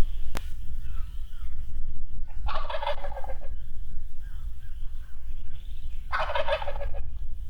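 Wild turkey gobbler gobbling twice, each rapid rattling gobble lasting about a second, the second coming about three and a half seconds after the first.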